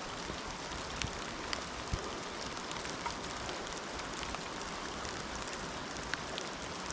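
Steady light rain falling, with occasional louder drops ticking.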